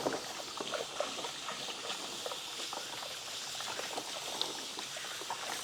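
Many small clicks and taps over a steady hiss as old leftovers are emptied out of food containers, with a faint trickling, pouring quality.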